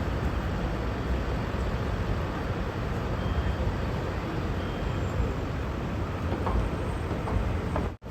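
Steady low rumble of vehicle noise, cut off abruptly for a moment near the end.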